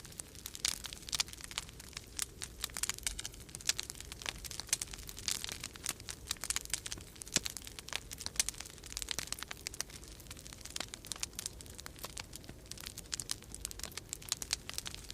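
Wood fire crackling in a fireplace: a dense, irregular run of snaps and pops, over a steady low rumble.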